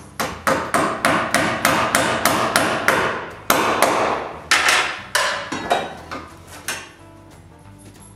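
Hammer nailing a metal joist hanger to a wooden tie beam: a quick run of ringing blows, about four a second, then a few slower, spaced blows that stop about seven seconds in.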